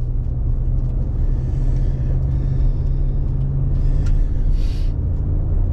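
Steady engine and road noise inside the cab of a 2022 Ram 1500 pickup truck while driving: an even low rumble with a steady low hum.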